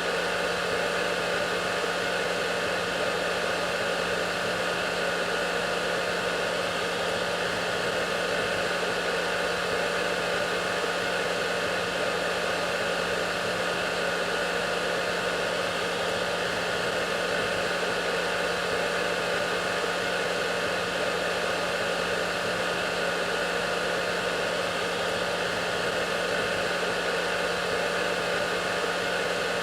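Hair dryer running steadily: an even rushing of blown air with a low motor hum and a few steady whining tones, unchanging throughout.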